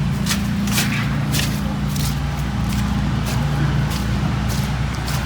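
Footsteps, about two a second, over a steady low mechanical hum.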